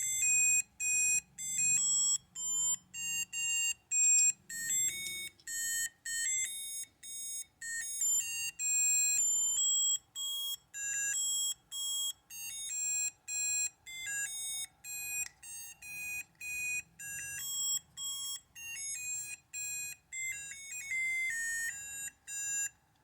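McDonald's 2002 Robo-Chi Robo-Baby toy's sound chip playing its electronic beeping tune through its small speaker, about two or three short notes a second, stopping near the end. The toy is working again on freshly fitted LR41 batteries.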